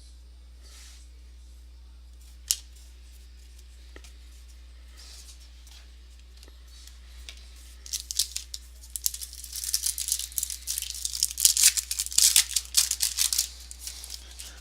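Foil trading-card pack wrapper torn open and crinkled: a dense run of crackling and rustling from about eight seconds in to near the end, after a single sharp click a couple of seconds in.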